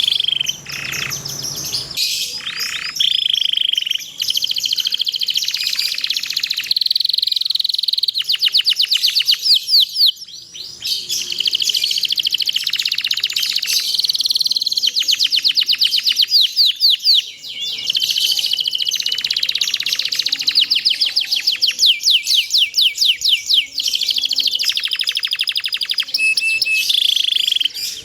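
Domestic canary singing a long, unbroken song: rapid rolling trills alternating with held whistled notes and chirps.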